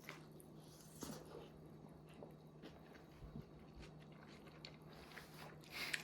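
Faint eating sounds at a table: soft chewing and small scattered clicks over a steady low hum, with a louder brief noise near the end.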